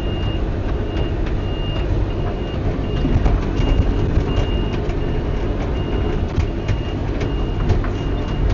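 Skid steer loader's backup alarm beeping steadily, about three beeps every two seconds, over the machine's running engine.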